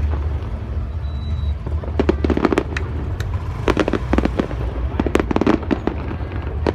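Aerial fireworks exploding in quick clusters of sharp bangs and crackles, with several rapid volleys about a second apart.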